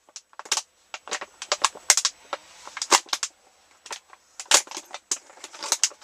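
A run of sharp, irregular clicks and knocks, several a second, from objects being handled by hand.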